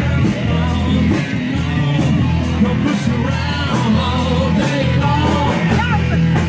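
Rock music with a steady drum beat about twice a second, bass and electric guitar, and a singing voice.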